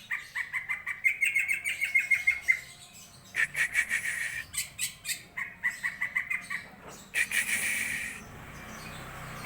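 Caged green leafbird (cucak ijo) singing: fast runs of rapidly repeated chirping notes in four phrases with short pauses between them, fading to a faint hiss near the end.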